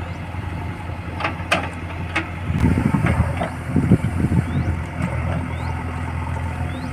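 Heavy diesel engine idling steadily, with a louder, rougher stretch in the middle and a few sharp clicks and knocks before it.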